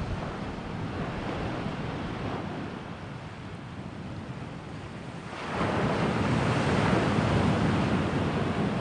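Sea waves washing against the shore in a steady rush, with a bigger wave surging in about five and a half seconds in.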